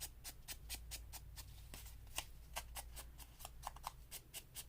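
An ink pad dabbed rapidly along the edge of a paper page, a quiet, even run of light taps about six or seven a second, inking the edge for definition.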